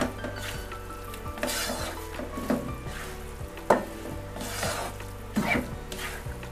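Raw beef chunks sizzling in frying rendang spice paste in a pan, with a spatula scraping and stirring through them about once a second.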